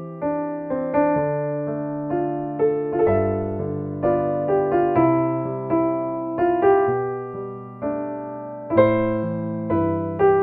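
Solo piano playing a slow, gentle ballad melody over sustained bass notes, each phrase struck and left to ring.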